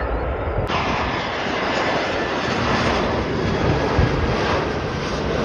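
Jet airliner engine noise: a steady rushing sound that abruptly turns fuller and brighter just under a second in.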